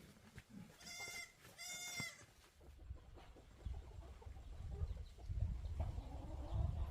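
A goat bleating twice in quick succession, two short wavering cries. A low rumble follows from about halfway in.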